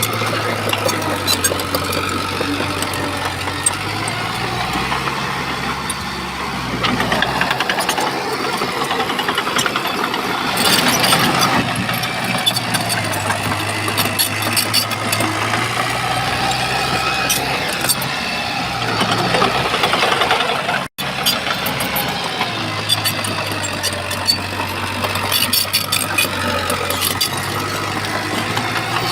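Shantui bulldozer's diesel engine running under working load, swelling louder a few times, with scattered sharp clanks. The sound drops out for an instant about two-thirds of the way through.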